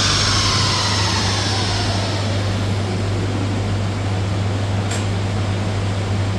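Volkswagen Golf 6 2.0 TDI diesel running down after a hard run: a whine falls in pitch over the first couple of seconds, then settles into a steady low hum with a faint tick about five seconds in.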